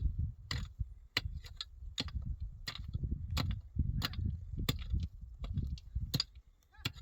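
Repeated sharp blows of a tool striking wood during hut building, about one and a half a second, over a steady low rumble.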